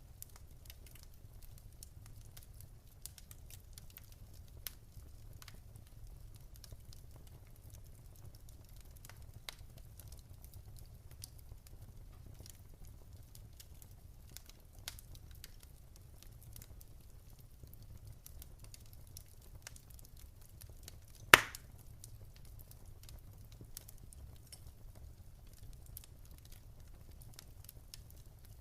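Wood fire in a fireplace crackling, with sparse faint snaps over a low steady rumble and one loud pop about two-thirds of the way through.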